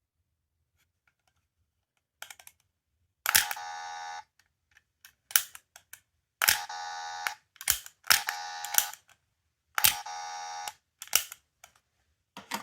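Small electronic sound toy from a capsule-toy machine, its button clicked and each press setting off a short, buzzy electronic tone of under a second, four times over, with a few extra plastic clicks between.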